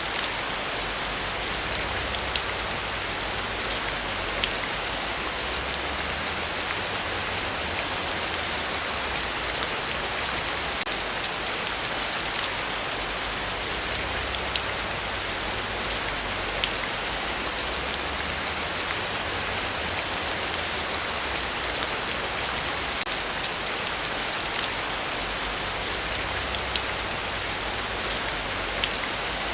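Heavy rain falling steadily, a dense hiss with individual drops ticking sharply here and there.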